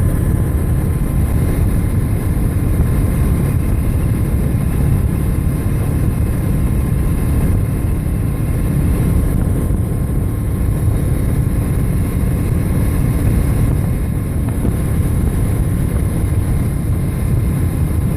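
Steady wind rush buffeting the microphone of a moving motorcycle, with engine and road noise running underneath.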